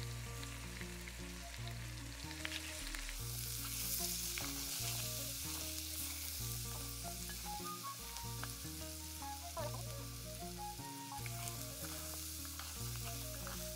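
Whole peeled potatoes sizzling as they fry in hot oil in an aluminium pot, with a wooden spoon stirring them. The sizzling grows louder about three seconds in.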